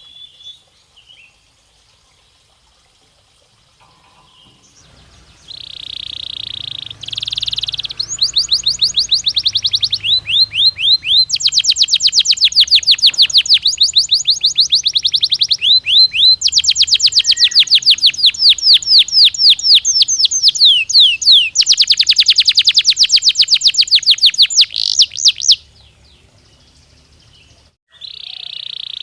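Canary singing. After a few quiet seconds come buzzy held notes, then long runs of rapid, high trills of many notes a second, stopping about 26 seconds in. A buzzy note starts again at the very end.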